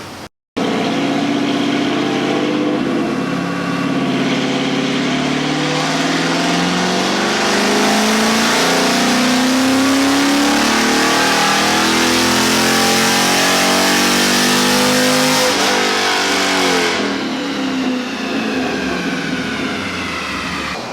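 Chevrolet Camaro V8 making a full-throttle pull on a chassis dyno: the engine note climbs steadily in pitch for about twelve seconds, then the throttle closes and it winds down.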